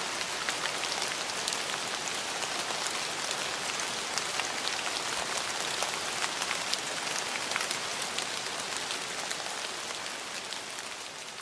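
Steady rainfall: an even hiss of rain with many sharp individual drop ticks, fading slowly toward the end.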